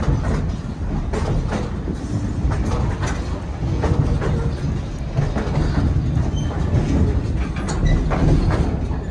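Railroad passenger car rolling along jointed track: a steady low rumble with irregular clacks as the wheels cross the rail joints, and a few faint brief squeals.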